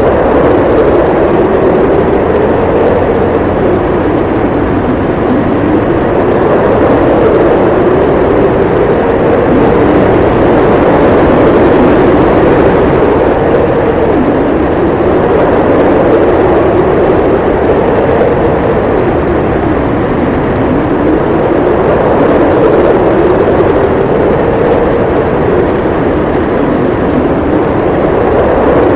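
Howling storm wind: a steady, loud roar with a hollow howl that slowly rises and falls in pitch every few seconds.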